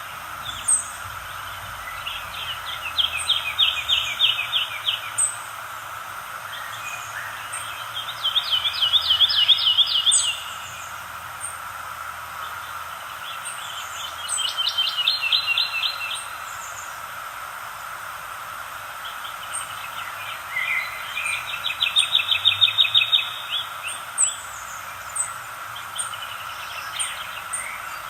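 Wild birds singing: one bird repeats a fast trilled song phrase about two seconds long every five or six seconds, and shorter high chirps from other birds fall in between, over a steady background hiss.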